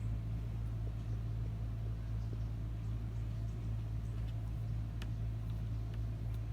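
A steady low mechanical hum, unchanging throughout, with a few faint ticks.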